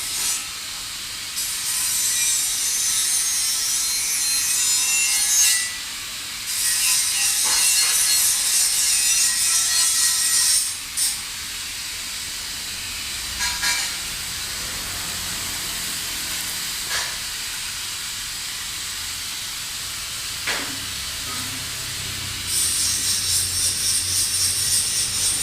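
Abrasive power grinding or sanding in several bursts of a few seconds each: a high hiss that stops and starts, with a few sharp knocks in the quieter gaps between bursts.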